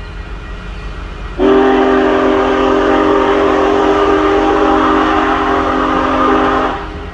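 Union Pacific Big Boy No. 4014 steam locomotive sounding a long, loud chime whistle blast. The blast starts about a second and a half in, holds one steady chord for about five seconds and cuts off near the end, over a constant low rumble.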